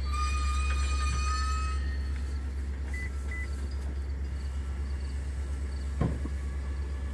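Metra commuter train at the platform: a steady low rumble, with a high metallic squeal from the train for the first couple of seconds. Two short beeps come about three seconds in, and a single knock about six seconds in.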